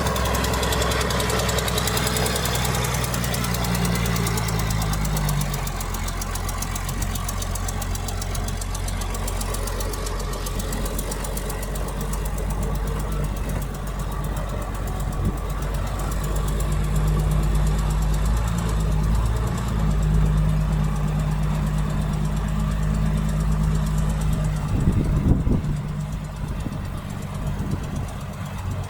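Heavy diesel engine of earthmoving machinery running steadily, its pitch dropping about five seconds in and climbing again later. A short burst of knocks comes near the end.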